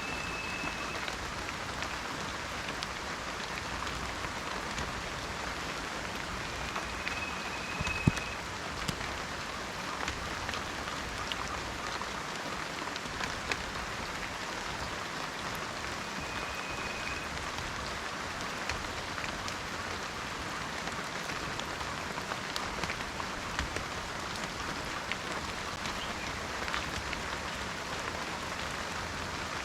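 Steady rain falling in a forest, a constant hiss with scattered drips and one sharper drop hit about eight seconds in. A short, high, steady whistle sounds three times.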